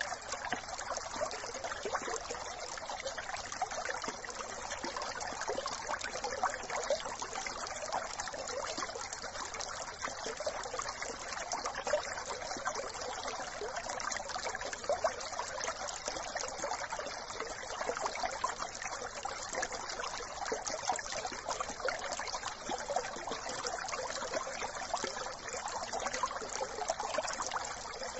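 A small brook babbling and trickling steadily over stones.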